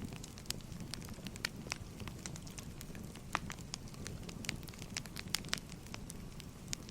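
Wood fire crackling: irregular sharp snaps and pops of burning firewood, several a second, over a steady low rumble.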